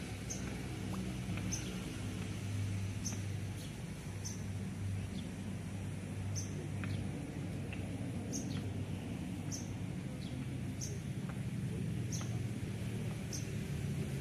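A bird giving a short, high chirp over and over, evenly spaced at a bit more than one call a second, over a steady low hum of background noise.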